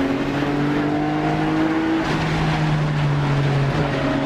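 Car engine pulling with a steady, slowly rising note, its pitch shifting about two seconds in, then holding fairly steady.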